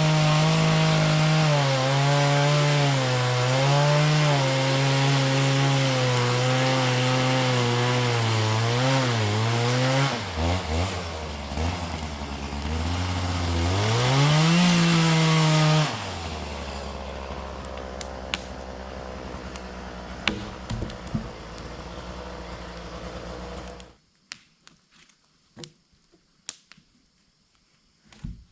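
Two-stroke chainsaw cutting wood at high revs, its pitch wavering under load, easing off and revving up again. It then runs lower and steady and cuts off about four-fifths of the way through, followed by a few scattered knocks.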